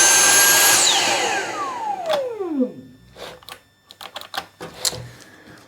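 Dyson cordless stick vacuum's motor whining at full speed for about a second, then cutting out and spinning down in a long falling whine, followed by a few light clicks. The battery pack shuts the power off, the same fault as before with its light blinking; the owner suspects the battery management unit has stored the error from the old cells.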